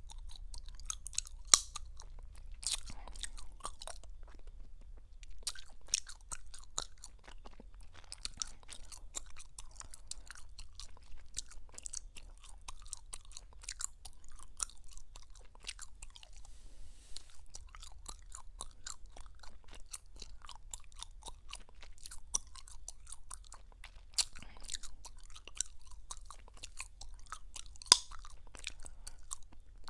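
Gum chewing close to the microphone: a steady run of wet, irregular smacking clicks, with a few louder sharp snaps, the clearest one near the end.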